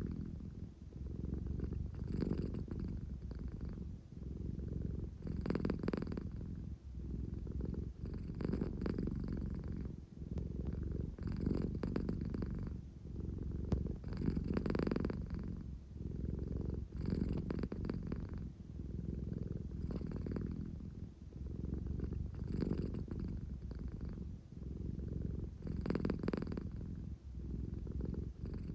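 American Shorthair cat purring steadily, the rumble swelling and easing with each breath about every three seconds. This is the sleepy, contented purr of a cat that wants affection.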